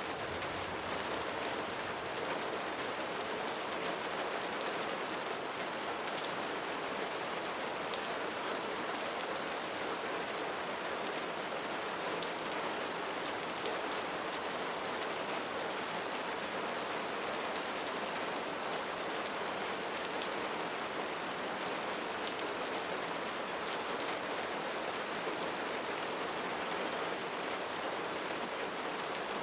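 Steady rain falling, with many small drops pattering on leaves.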